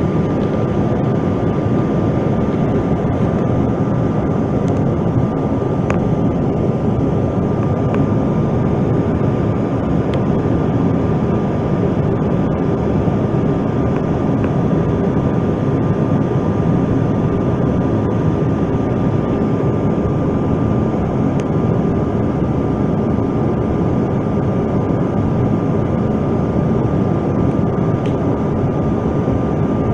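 Steady cabin noise of a CRJ-900 regional jet with its rear-mounted GE CF34 turbofans running at high power, a loud even roar with a thin steady whine held on top.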